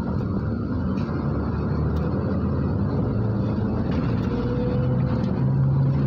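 MAZ-103 city bus under way, heard from inside the passenger cabin: a steady low diesel engine hum with road noise, rising a little in pitch and loudness in the second half as the engine pulls harder.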